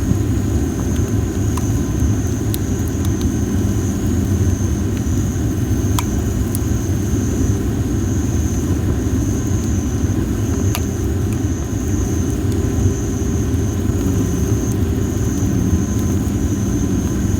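Dry masaki (Japanese spindle tree) firewood burning: a few sharp crackling pops, about three of them clear, over a steady low rumble. A steady high-pitched tone runs underneath.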